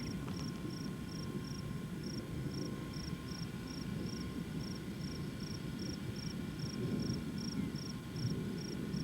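A cricket chirping steadily, a little under three short high chirps a second, over a low steady rumble.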